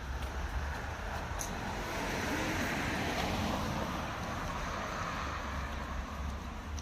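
A car passing by on the street, its tyre and engine noise swelling to a peak a few seconds in and then fading, with wind rumbling on the microphone.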